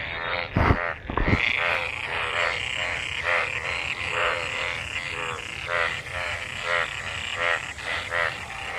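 Chorus of frogs croaking in monsoon rainwater, many short rattling calls overlapping and repeating throughout. Two or three brief low thumps in the first second and a half.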